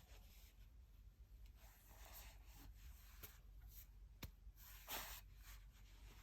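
Faint rustling and a few soft clicks, typical of tarot cards being handled and laid on a table, over a quiet room hiss.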